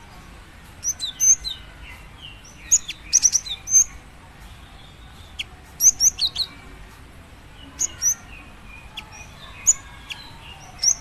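Female cinereous tit (gelatik batu) giving short, high, sharp chirps in quick clusters of a few notes, with pauses of a second or two between clusters. This is a female's call to attract a male.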